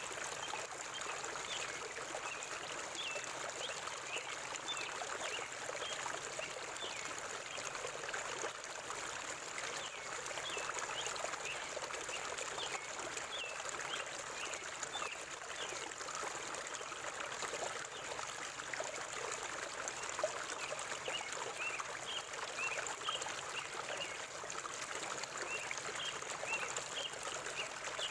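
River water flowing steadily, with birds giving many short, high chirps throughout.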